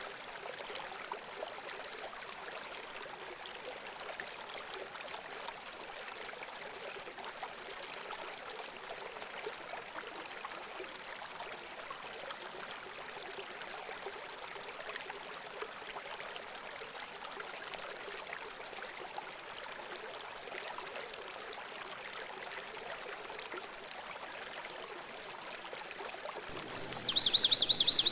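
Steady running water, an even trickling hiss. Near the end a loud, high, rapid bird trill lasts about a second.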